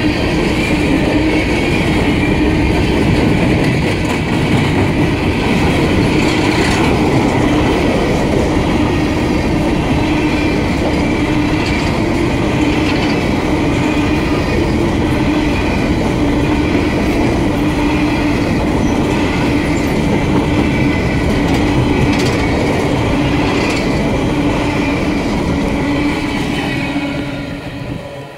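Empty coal hopper cars of a freight train rolling past close by: steel wheels rumbling and clattering on the rails, with a steady hum. The sound falls away near the end as the last car passes.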